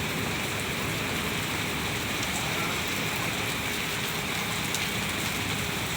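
Steady rain falling and pattering on surfaces, an even hiss with fine drop ticks throughout.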